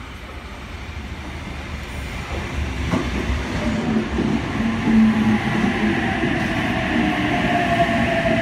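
Double-deck electric passenger train pulling into the platform and braking: a wheel-and-rail rumble growing louder, with a knock about three seconds in. In the second half a motor whine slowly falls in pitch as the train slows.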